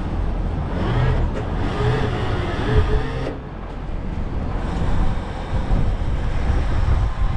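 Strong gusting wind buffeting the camera's microphone through its wind guard: a heavy, uneven rumble. A faint pitched sound rides over it for the first few seconds and cuts off about three seconds in.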